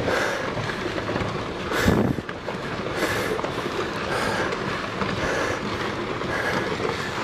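Rockfall on a volcano slope: rocks tumbling and clattering down in a continuous rumble, with a sharper crack about two seconds in.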